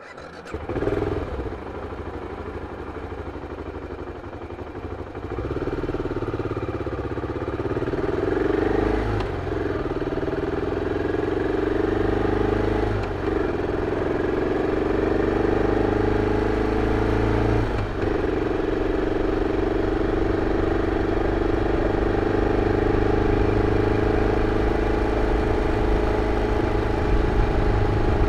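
BMW F 650 CS motorcycle's single-cylinder engine through its original exhaust, coming in suddenly with a short rise about a second in, then pulling harder. Its pitch breaks and drops at gear changes about 9, 13 and 18 seconds in, then it runs steadily.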